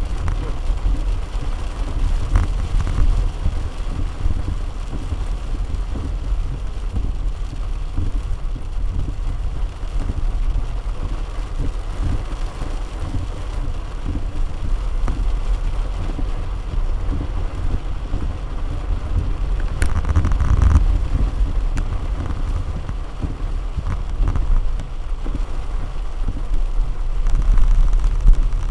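A vehicle driving in the rain: a steady low rumble with a hiss of rain and wind over it, a brief louder rush about twenty seconds in, and a swell near the end.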